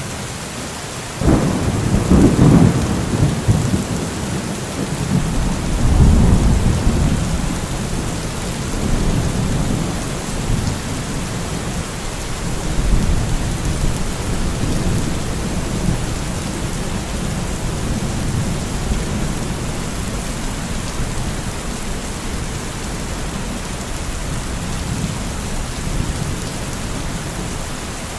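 Steady rain with thunder: a sudden clap of thunder just over a second in, then long low rumbles that die away over the next twenty seconds or so.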